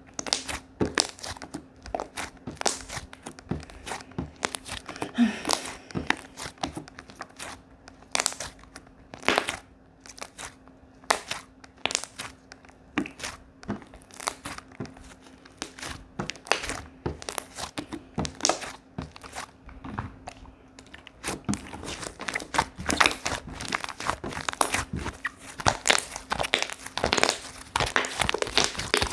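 Slime being kneaded and squished by hand, a string of sharp crackles and pops that grow denser and more continuous over the last several seconds.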